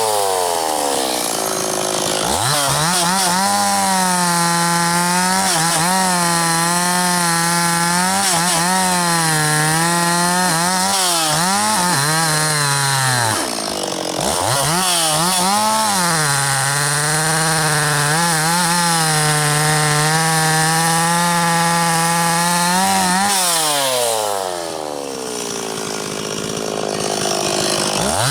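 Two-stroke chainsaw, a 50cc-class Stihl 026, revving up and cutting through logs, its revs sagging a little under load. It drops back briefly about halfway through and idles for a few seconds near the end before revving up again.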